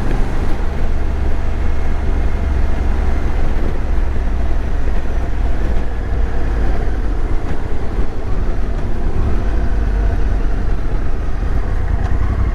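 Motorcycle riding at road speed: the engine runs steadily under a constant rush of wind on the action-camera microphone.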